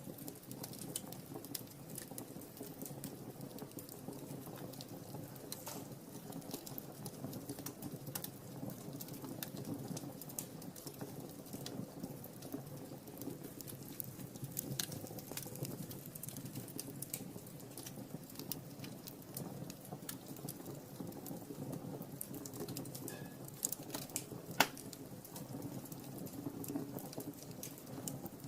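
Wood fire burning in a fireplace: a steady low rustle of flames with frequent small, irregular crackles, and one sharper, louder pop near the end.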